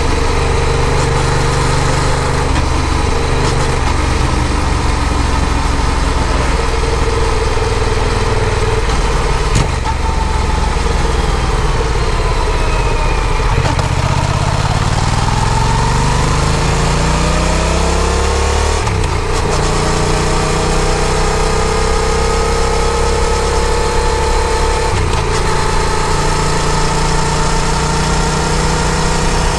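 Yamaha FZ-07's parallel-twin engine running under way, over a steady rush of wind. The engine note sinks from about ten seconds in, climbs as the bike speeds up, breaks briefly for a gear change about two-thirds of the way through, then rises slowly again.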